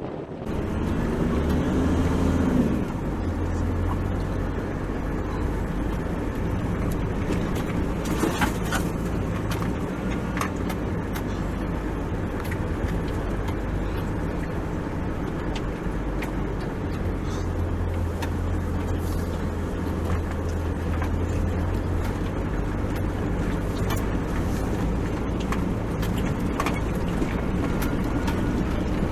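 Four-wheel-drive vehicle driving along a sand track: a steady engine drone, rising in pitch over the first couple of seconds, with scattered short knocks and rattles.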